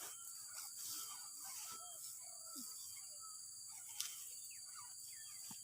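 Faint outdoor ambience: a steady high drone of insects with many short, scattered bird-like chirps, and a single sharp click about four seconds in.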